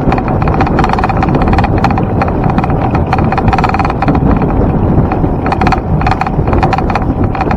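Loud, steady rush of wind and road noise from a camera riding on a moving bicycle, with quick rattling clicks from the mount over the road surface and a constant hum underneath.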